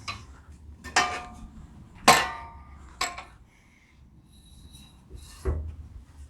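Steel parts and hardware of a table saw stand clanking against each other as they are handled during assembly: four sharp metallic clanks with a short ring, the loudest about two seconds in.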